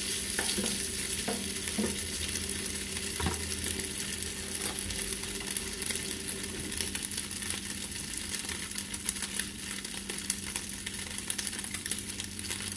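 Diced ham sizzling steadily as it fries in oil in a skillet, with a few scrapes and taps of a spatula stirring it in the first few seconds.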